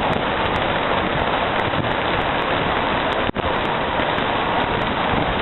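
Heavy rain falling, a loud, steady hiss with one brief dropout about three seconds in.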